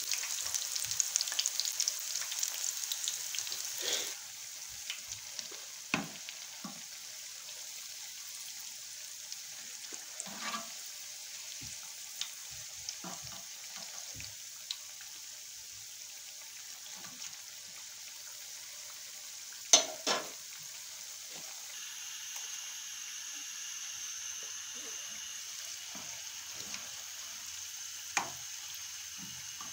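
Gram-flour pakoras deep-frying in hot oil in a small pan: a dense crackling sizzle for the first four seconds, then a steadier, quieter sizzle. Now and then a metal spatula clinks against the pan as the pakoras are turned, loudest twice in quick succession about twenty seconds in.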